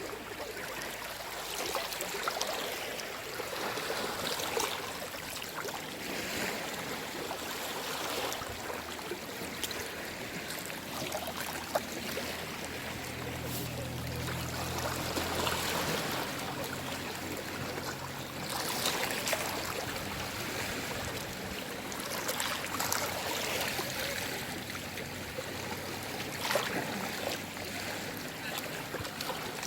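Small waves of a calm sea lapping and washing ashore: a continuous rush of water that swells every few seconds, with brief splashes.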